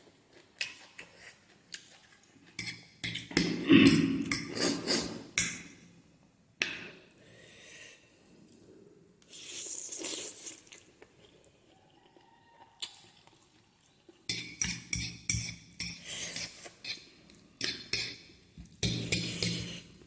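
Eating utensils clinking and scraping against a dish in two long runs of rapid clicks, with quieter stretches between.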